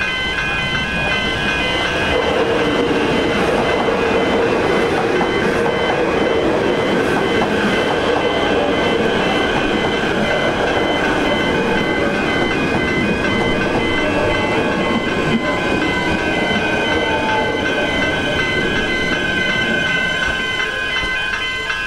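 Melbourne Metro electric suburban train running past over a level crossing, with a steady rush of wheels on rails for most of the time. The crossing's warning bells ring in rapid pulses throughout. A whine falls slowly in pitch past the middle.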